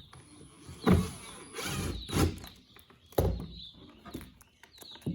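Wooden boards being handled: several knocks and scraping thuds of wood on wood and on a work surface.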